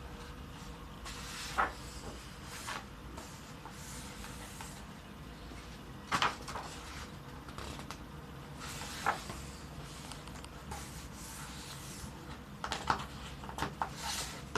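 Pages of a colouring book being turned slowly and handled: soft paper swishes and a few light taps and ticks.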